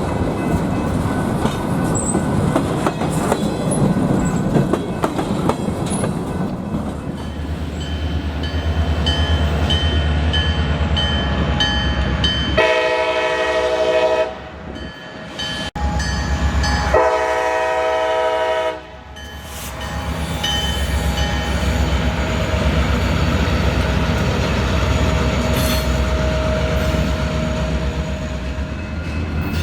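Diesel freight locomotives rumbling past a grade crossing while the lead unit sounds two long multi-chime horn blasts, each about a second and a half, with a crossing bell dinging steadily before them.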